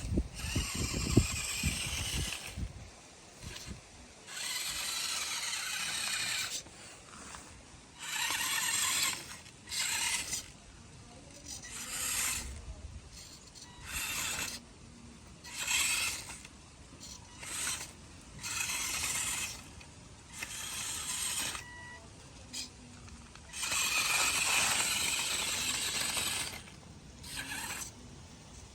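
Small electric motor and plastic gearbox of a toy RC tractor whirring in repeated short runs of one to two seconds, starting and stopping as it is driven in bursts.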